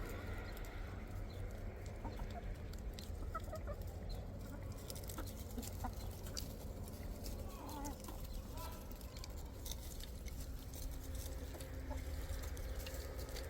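Chickens clucking softly and sporadically while eating scraps of food, with scattered short clicks and a steady low rumble underneath.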